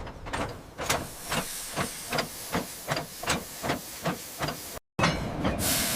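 AI-generated train sound effect: a steady hiss with a regular clanking pulse about two and a half times a second, like a locomotive's rhythmic chuff. It cuts out abruptly about five seconds in, and a brighter hiss follows.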